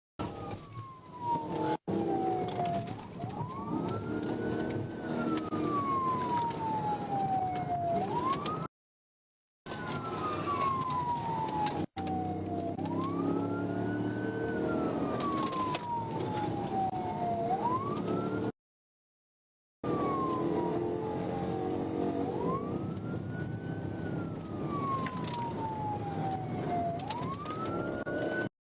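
Police car siren on wail, rising quickly and falling slowly in a cycle of about eight seconds, over steady car engine and road noise. The sound cuts out completely three times, for about a second each.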